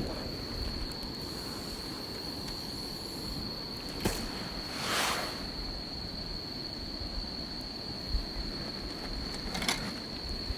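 Wood campfire crackling, with a sharp pop about four seconds in and another near the end, and a brief rushing swell about five seconds in, over a steady high-pitched insect trill.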